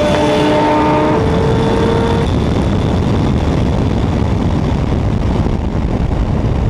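A tuned car engine under hard acceleration, its pitch climbing, dropping at an upshift just after the start and climbing again, then giving way to a steady loud rush of engine and road noise.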